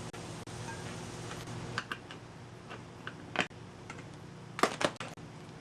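Scattered light clicks and taps from handling a bicycle wheel and small hand tools, with a couple of sharper clicks near the end.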